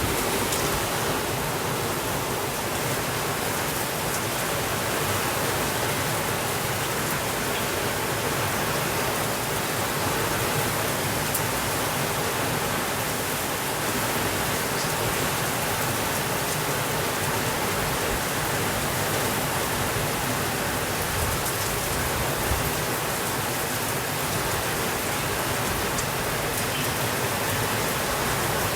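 Steady rainfall, an even, unbroken hiss across the whole range, with a few faint ticks scattered through it.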